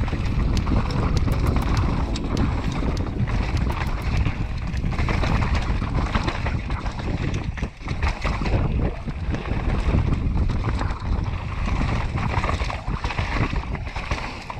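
Wind rushing over an action camera's microphone during a mountain-bike ride, with a run of clicks and rattles in the first couple of seconds and a brief drop near the middle.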